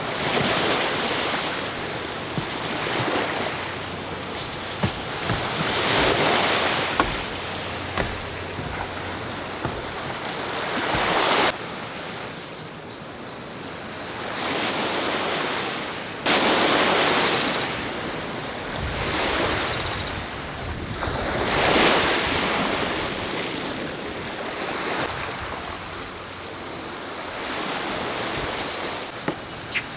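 Sea waves washing onto the shore, the surf swelling and fading every few seconds, with wind. The sound drops away abruptly about a third of the way in and comes back just as abruptly several seconds later.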